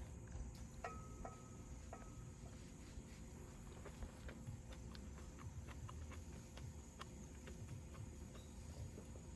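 Faint, irregular clicks and ticks over a steady, thin, high-pitched tone.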